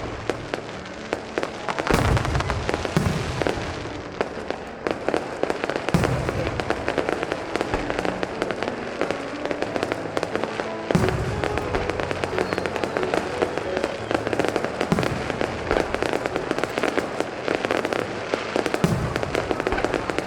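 Fireworks display: aerial shells bursting with heavy booms every few seconds, over continuous dense crackling, with music playing underneath.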